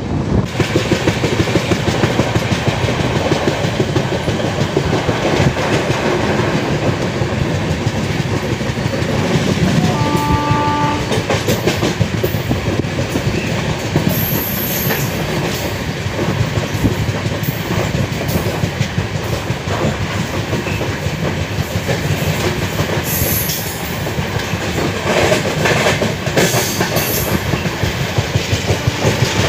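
Indian Railways passenger train running along the track, its wheels clattering over the rail joints in a quick, even rhythm. About a third of the way through, a train horn sounds briefly as one short steady chord.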